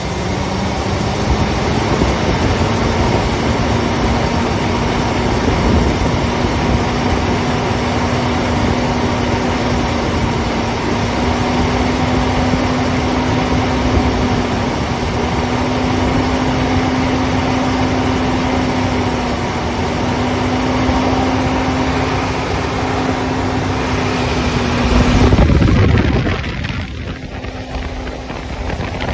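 Ford Excursion's engine being cranked by the starter motor, a steady whine with a pulsing churn, without catching: the truck's no-start, suspected to be low fuel pressure. The cranking swells briefly about 25 seconds in, then stops.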